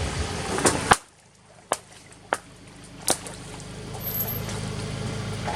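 A few short, sharp snaps, one at about a second in and three more spaced roughly half a second to a second apart, over a low hum that grows near the end.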